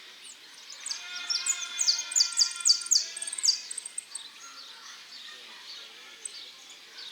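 Caged male saffron finch singing: a loud, fast series of quick downward-sweeping high notes from about one to three and a half seconds in, with scattered chirps around it.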